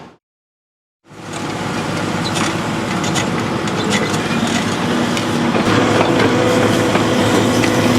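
About a second of silence, then a heavy excavator's diesel engine fades in and runs steadily under load, with scattered knocks and clatter of stone and blocks being worked.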